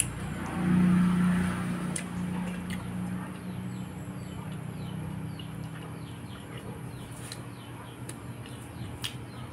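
Close-up eating sounds: a few sharp clicks of lips smacking and chewing as soft tilapia is eaten with the fingers. A low hum swells about a second in and fades slowly, and small birds chirp rapidly in the background through the middle.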